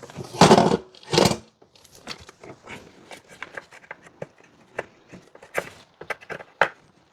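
Hands working plastic intake parts and an electrical connector in a car's engine bay: two louder rustling knocks in the first second and a half, then scattered small clicks and scrapes, with a sharper click near the end as the throttle body connector latches.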